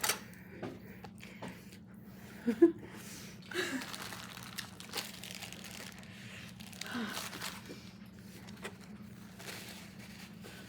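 Paper food wrapping crinkling and rustling with chewing while eating, with scattered clicks, one louder brief sound about two and a half seconds in, and a couple of breathy puffs.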